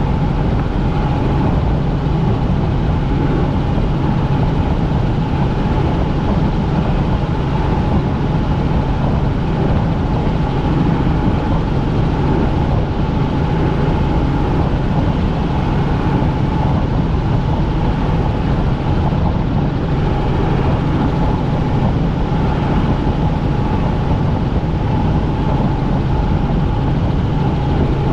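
Helicopter turbine and rotor noise heard inside the cabin: a steady, loud drone with a constant low hum and a higher whine.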